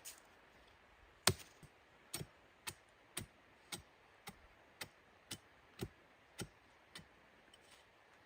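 A steady series of sharp knocks, about two a second, the first the loudest, stopping shortly before the end.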